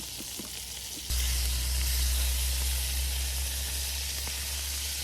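Seasoned chicken frying in a pan with a steady sizzle. About a second in, a low rumble comes in suddenly beneath it.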